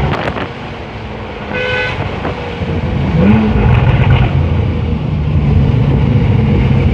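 Porsche 911 Carrera GTS's flat-six engine running through an IPE exhaust. A car horn toots briefly about a second and a half in, and from about 3 s the engine revs up and runs louder.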